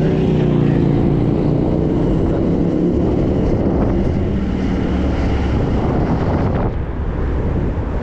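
Road ride with wind rushing on the microphone and a motor vehicle's engine hum. The hum sinks slightly in pitch and fades over the first few seconds, then returns faintly.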